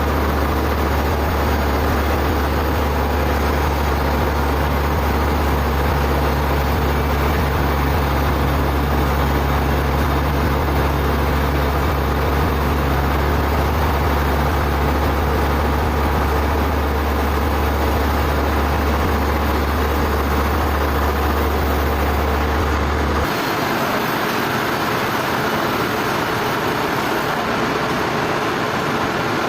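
Sawmill machinery running steadily, an even mechanical noise with a deep hum beneath it. The hum cuts off suddenly about 23 seconds in while the rest of the noise carries on.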